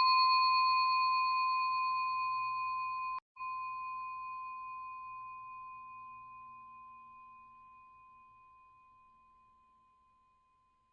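A single bell-like chime rings out and slowly fades away over about ten seconds, with a brief dropout about three seconds in.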